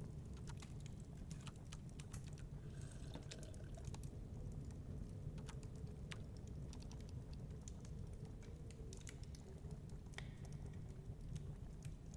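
Wood fire crackling in a fireplace: irregular small pops and snaps over a steady low rumble of storm wind.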